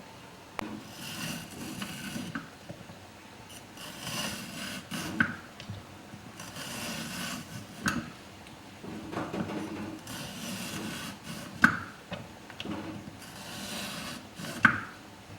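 Repeated scraping strokes, each about a second long, with a few sharp taps between them: kitchen food preparation.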